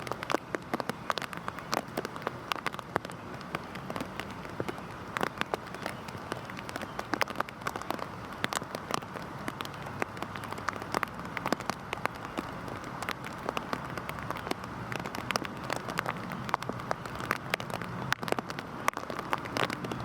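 Heavy rain falling steadily: a continuous hiss with many sharp, scattered drop impacts on a hard surface.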